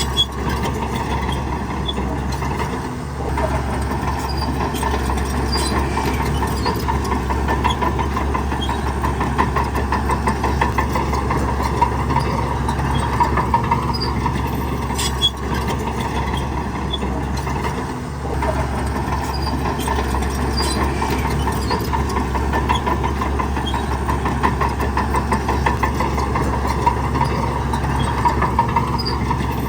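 Shantui bulldozer's diesel engine running steadily while working, dipping briefly twice, with a few sharp metallic clanks.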